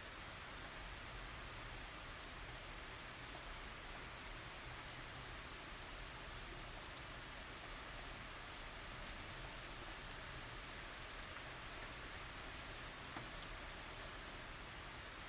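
Steady tropical rain falling, an even hiss with many fine drop ticks and no thunder.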